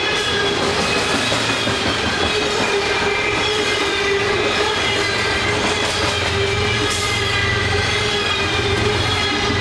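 Train rolling past at close range, loud and steady, its steel wheels squealing on the rails with several held, slightly wavering squeal tones over the rumble of the cars.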